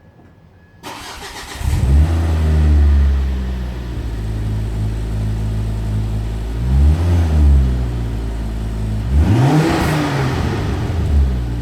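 Ford Focus XR5 Turbo's 2.5-litre turbocharged five-cylinder engine cranking and starting about a second in, breathing through a freshly fitted 3-inch Cobra resonated cat-back exhaust. It settles to a steady idle and is revved briefly twice, near the middle and near the end.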